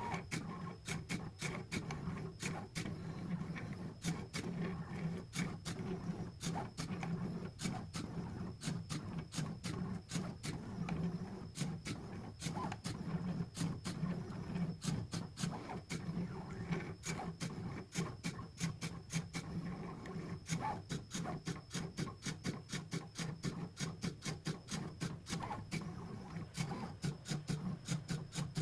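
Pen plotter drawing: its motors hum steadily while the pen carriage moves in short strokes, with many sharp clicks, several a second and coming faster near the end.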